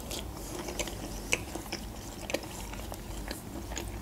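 A person chewing a mouthful of crab stick salad, with scattered small wet mouth clicks.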